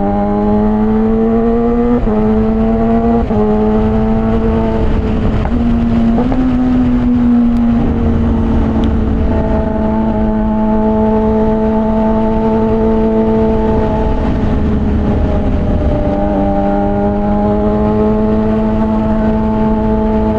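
Straight-piped Suzuki GSX-R600 (K6) inline-four running under way, its pitch stepping and wavering over the first several seconds, then holding a steady note from about eight seconds in.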